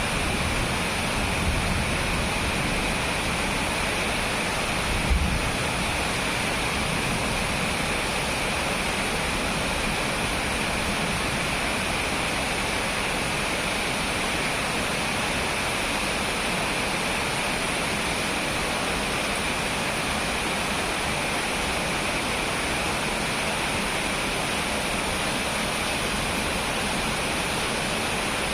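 Steady rain hiss during a thunderstorm, with one brief low thump about five seconds in.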